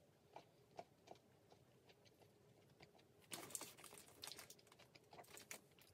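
Faint crunching of a quinoa-crunch chocolate bar being chewed: a few scattered small clicks, then a denser run of crackly crunches from about three seconds in.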